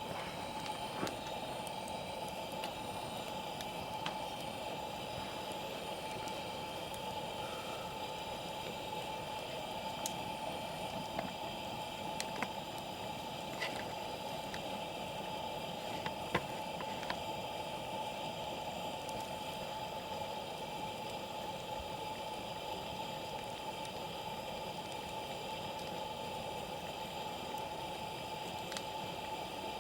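Wood campfire burning: a steady hiss with irregular sharp crackles and pops scattered through it.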